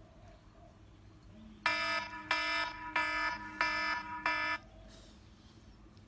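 An electronic alarm beeping five times in a steady, even rhythm, about three beeps every two seconds, starting a little under two seconds in and stopping suddenly.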